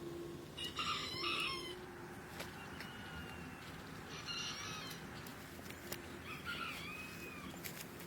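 Rooster crowing: three separate calls, the first about a second in and the loudest.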